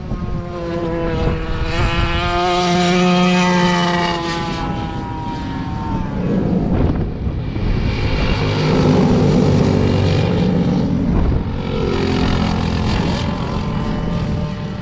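Small single-cylinder mini-bike engines buzzing as the racers go by, one high engine note that drops in pitch as it passes about five seconds in, then more engines passing through the rest.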